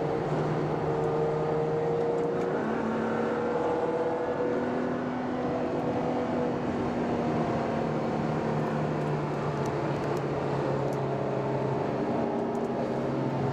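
Ferrari FF's V12 engine running steadily while under way, heard on board, its note holding with small shifts in pitch over a haze of road noise.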